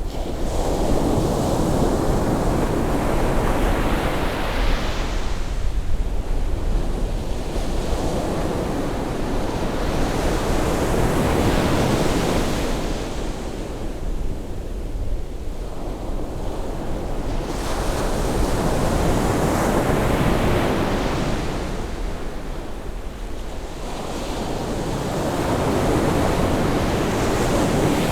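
Sea waves breaking and washing up a beach on a rising tide, each wave swelling and fading in turn about every eight seconds over a steady low rumble.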